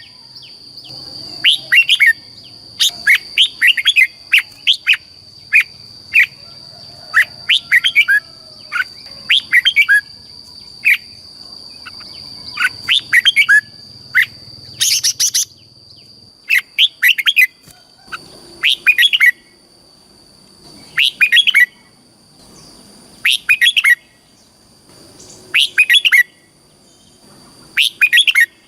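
Red-whiskered bulbul singing: short, loud, warbling phrases repeated every second or two, spacing out in the second half. A steady high thin whine runs beneath and weakens about halfway through.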